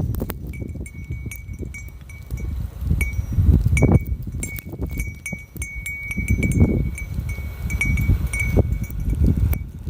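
Storm wind gusting hard against the microphone in rising and falling surges, with a wind chime tinkling in short high rings throughout.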